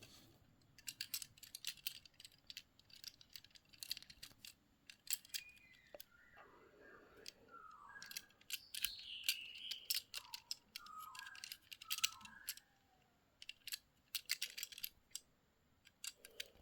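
A toy car's packaging being opened by hand: a quick run of small sharp clicks and crinkles, with squeaky rubbing in the middle and a short lull a little before the end.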